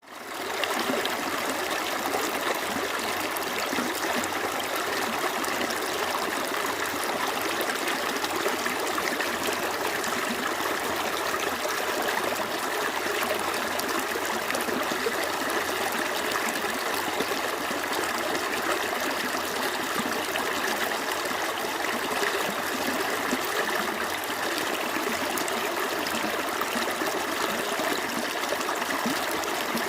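Small creek flowing over stones: steady running and trickling water, fading in over the first half second and then constant.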